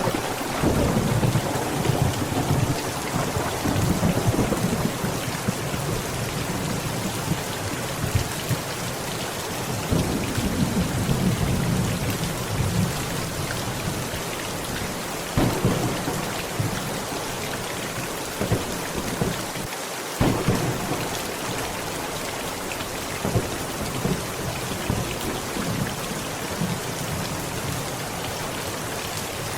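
Heavy, steady rain with a thunderstorm: low rolls of thunder come and go several times, with sharper claps about halfway through and again a few seconds later.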